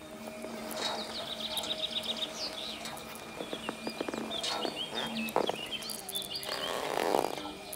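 Birds chirping, with a fast trill about a second in and short chirps later, over a steady low hum.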